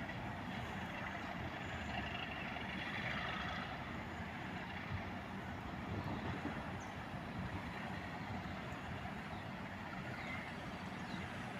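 English Electric Class 37 diesel locomotive running steadily as it departs, a continuous low rumble with a light hiss.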